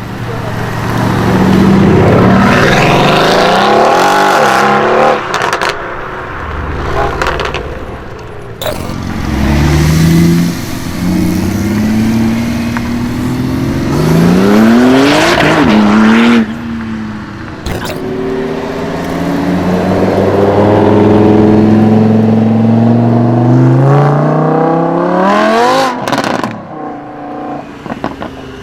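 High-performance supercar engine revving and accelerating hard in several long pulls, its pitch climbing and then falling away. Sharp exhaust pops and cracks come in the gaps between pulls.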